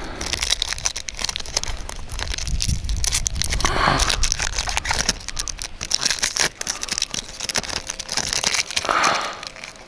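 Foil Pokémon card booster pack crinkling and tearing as it is opened by hand, a dense run of small crackles throughout.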